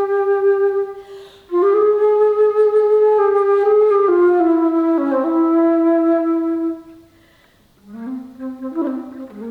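Solo alto flute playing long sustained notes that step down in pitch, breaking for a breath about a second in. The phrase ends about seven seconds in, and after a short pause a lower, quicker phrase of shorter notes begins near the end.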